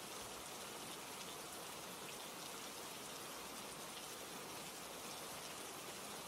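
Steady rain ambience: an even hiss of rainfall with scattered raindrops, unchanging throughout.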